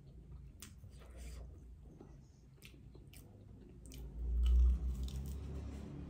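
Chewing and biting into a fried samosa, with scattered small crisp crunches. About four seconds in, a bite comes with a loud low thump.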